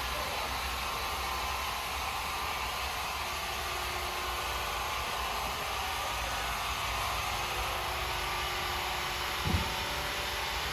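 Sawmill machinery running steadily with a low hum, and a single short low thump about nine and a half seconds in.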